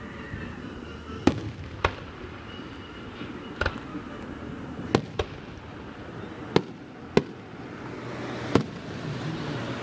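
Aerial fireworks shells bursting: about eight sharp bangs at uneven intervals, some in quick pairs.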